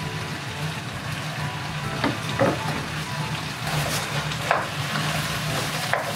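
Chopped vegetables, carrots among them, sizzling as they fry in hot oil in a pan. A utensil stirs them, knocking or scraping against the pan a few times.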